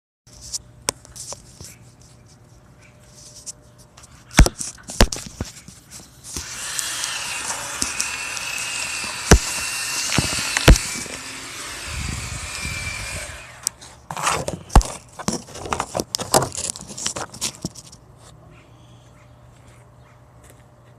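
Tree removal with a chainsaw: sharp cracks of wood, then about seven seconds of steady saw noise with a low rumble near its end, then more cracks.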